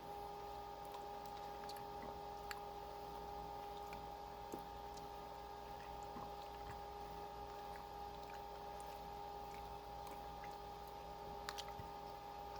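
A faint, steady two-tone hum with a few soft, scattered clicks.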